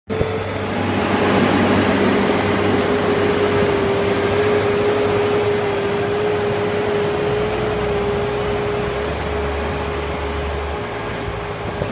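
Steady machine-like running noise with a constant mid-pitched hum and a low drone underneath.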